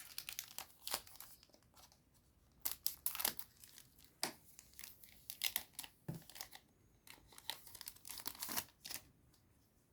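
A Digimon Card Game booster pack wrapper being torn open and crinkled, in irregular bursts of crackling that die away about nine seconds in.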